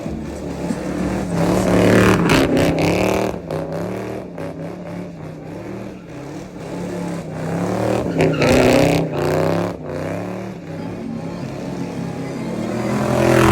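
Car engines revving loudly at a street car meet over a steady engine idle. There are three loud surges in pitch and volume, about two, eight and thirteen seconds in, as cars accelerate past.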